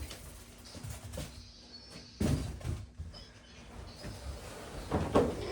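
Cardboard box and packaging being handled: scrapes and knocks, the clearest about two seconds in and the loudest near the end.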